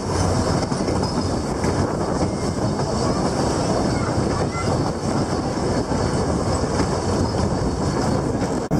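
Puffing Billy narrow-gauge steam train running, heard from aboard a carriage: a steady rumble of wheels on the rails. The sound drops out briefly near the end.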